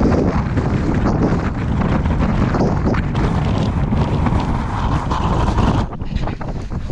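Strong mountain wind buffeting the microphone in gusts, easing briefly about six seconds in.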